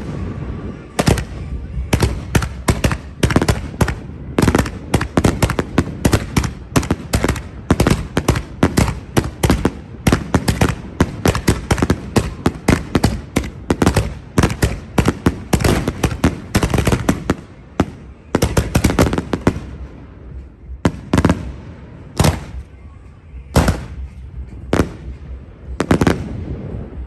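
Fireworks exploding in a rapid barrage of sharp bangs, several a second, thinning out about two-thirds of the way through to single bangs a second or two apart.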